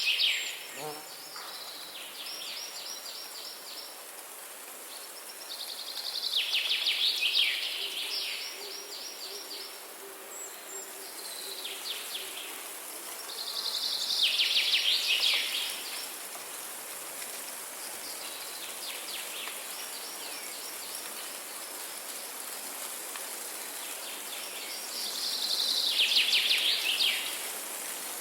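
A songbird singing a rapid, high trilled phrase about every six to twelve seconds, four times, with fainter trills in between, over a steady background hiss.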